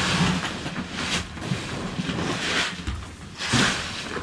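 Bulk de-icing salt being scooped and poured into containers: about four rushes of noise, roughly a second apart.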